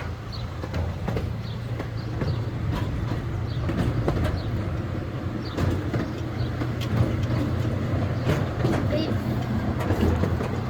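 Small passenger train rolling along at low speed: a steady low rumble of the running gear with irregular clicks and clacks of the wheels over the rail joints.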